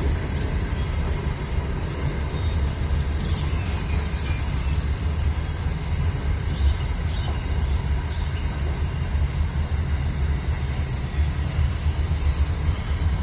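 Train passing over a bridge: a steady, heavy low rumble, with faint high-pitched squeals a few seconds in.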